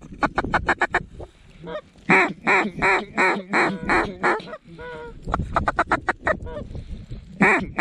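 Hunters blowing mallard duck calls: rapid short chattering notes, then a loud run of quacks about three a second, repeated near the end, to call a flock of mallards in to the decoys.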